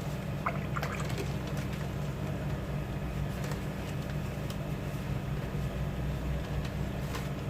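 Steady low background hum, with a few faint ticks.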